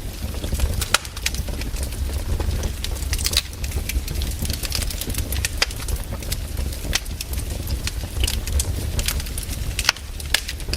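Wood fire crackling: irregular sharp pops and snaps over a steady low rumble, with the strongest pops about a second in and near the end.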